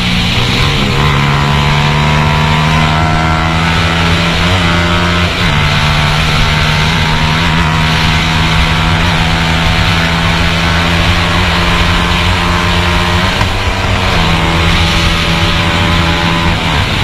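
A 150 cc sport motorcycle's engine held at high revs under hard riding, heard from onboard, with wind rushing past. The pitch dips briefly and climbs back at gear changes about five seconds in, around fourteen seconds, and near the end.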